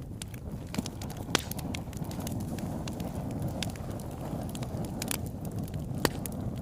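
Wood fire in a fireplace crackling: a steady low rumble of flames under frequent sharp pops, the loudest about a second and a half in and again near the end.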